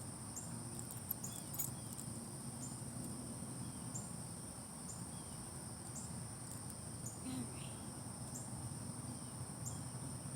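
A steady, high-pitched insect chorus, crickets by the sound of it, with a short chirp repeating about once a second over a low background rumble.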